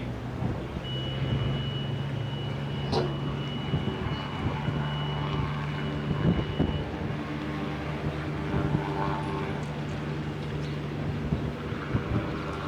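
A motor vehicle's engine running steadily with a low hum. A steady high-pitched tone sounds over it for about six seconds, and there is a sharp click about three seconds in.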